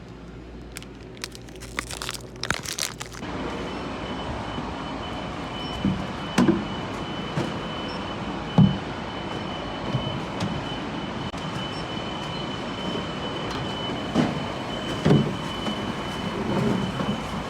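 Steady running noise of a moving vehicle heard from inside, starting about three seconds in, with a faint steady whine and scattered knocks and bumps.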